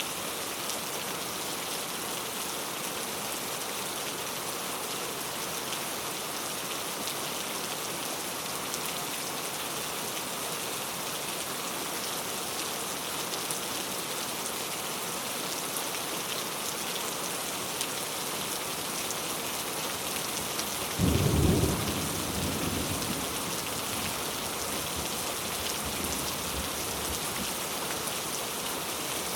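Steady rain falling, an even hiss of drops throughout. About two-thirds of the way in, a thunderclap breaks out as the loudest sound and rumbles on lower for a few seconds before fading back into the rain.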